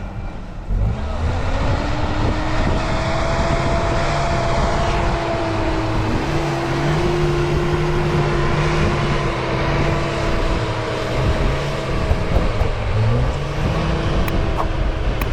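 Motor vehicle engine running under load, its pitch dipping and then climbing back about a second in before holding steady, over a constant rushing noise.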